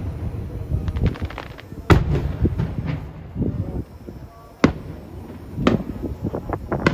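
Aerial fireworks shells bursting: several sharp bangs, about two seconds in, near five and six seconds and again near the end, with scattered crackling and a low rumble between them.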